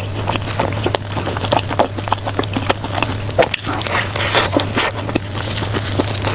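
Close-miked chewing and mouth sounds of someone eating: a steady run of small wet clicks and crackles over a low electrical hum.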